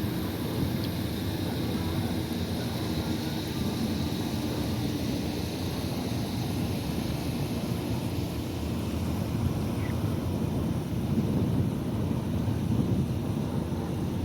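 Motorboat engine running steadily as a boat passes through the inlet, a low rumble that swells a little near the end, with wind noise on the microphone.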